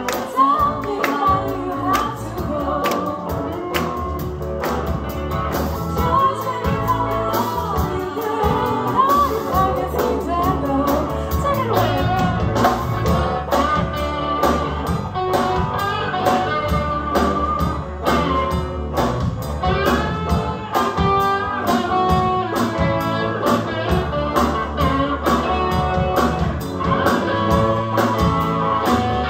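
Live blues song played by a band: guitar accompaniment with a sung melody over a steady beat.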